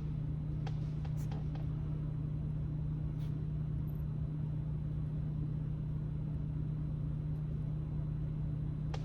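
A steady low hum throughout, with a few faint sharp clicks in the first few seconds and a louder click near the end.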